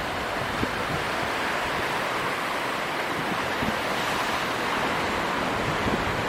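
Strong wind rushing steadily, with a few faint low buffets on the microphone.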